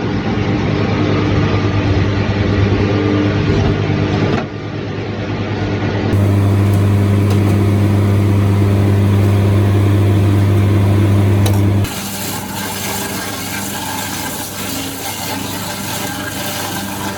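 Heavy machinery running steadily with a strong low hum, changing abruptly three times as one machine sound gives way to another.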